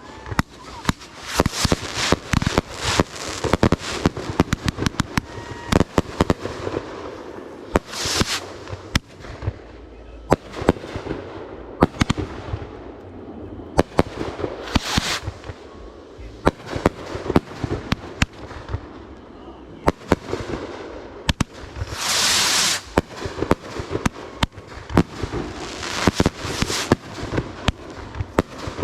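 Consumer fireworks going off in rapid succession: many sharp bangs and cracks, with several short hissing bursts in between, the loudest hiss lasting about a second near the two-thirds mark.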